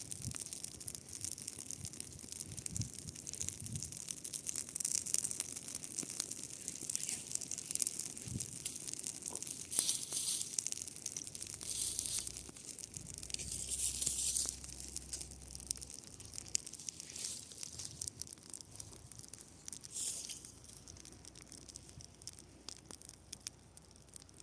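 Dry grass crackling and rustling in a dense run of fine, sharp crackles, swelling louder three times and easing off near the end.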